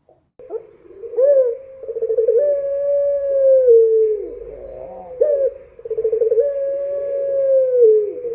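Puter, a domesticated ringneck dove, cooing twice. Each coo is a short rising note, a quick rolling stutter, then a long held note that falls slightly at the end.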